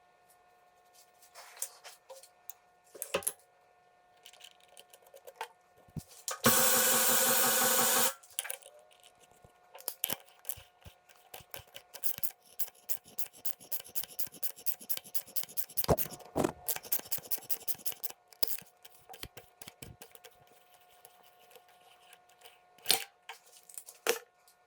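Power-tapping a threaded hole with a spiral-flute bottoming tap on a machine in back gear. There is a loud buzzing run of about a second and a half, then a long stretch of rapid clicking and scraping, with scattered knocks.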